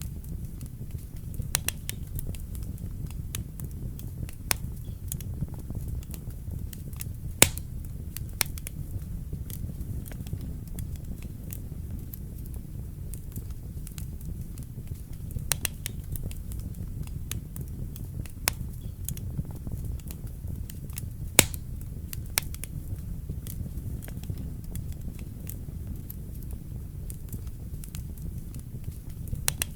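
Wood fire burning in a fireplace: a steady low rumble of the flames with irregular sharp crackles and pops from the burning logs, two louder pops about 7 seconds in and about 21 seconds in.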